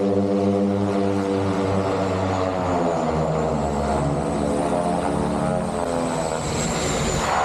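de Havilland Canada DHC-6 Twin Otter's turboprop engines and propellers running with a steady drone; the pitch of the drone shifts about three seconds in, with a faint high whine above it and a rush of louder noise near the end.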